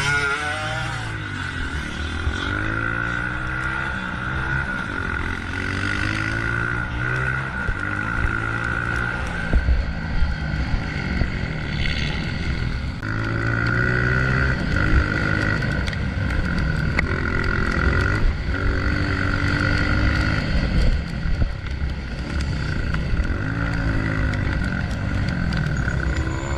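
Honda CRF125F's single-cylinder four-stroke engine revving up and down over and over as the dirt bike is ridden off-road, with a few sharp knocks about ten and twenty seconds in.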